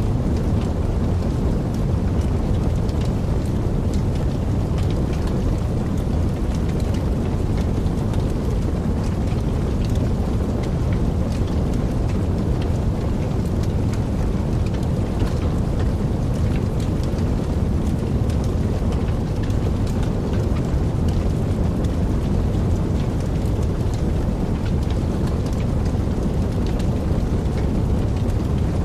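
Wood fire burning in a fireplace, crackling with many small sharp pops over a steady low rumble.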